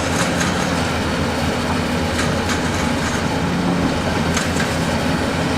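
Diesel engine of a heavy earthmoving machine running steadily, with scattered metallic clanks and knocks.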